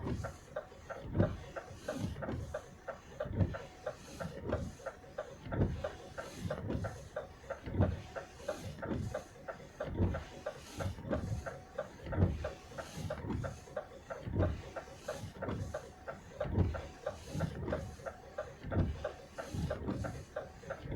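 Footsteps trudging through snow, a dull crunching thud about once a second at a slow, steady pace.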